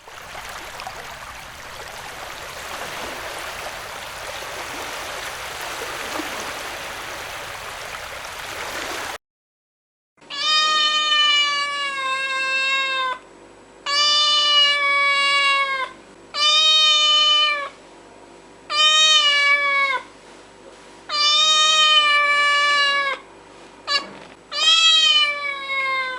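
A steady noisy hiss for about the first nine seconds, then, after a brief gap, a cat meowing over and over: about seven long, drawn-out meows, each trailing down in pitch at its end.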